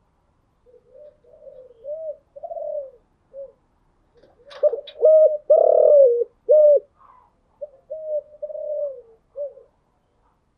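Spotted dove cooing in three phrases of low, rounded coo notes, the middle phrase the loudest.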